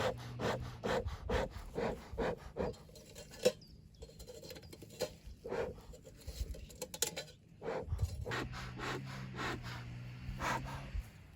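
Small wood fire crackling in a bee smoker, with irregular clicks and scraping as it is handled. A low steady hum comes in near the end.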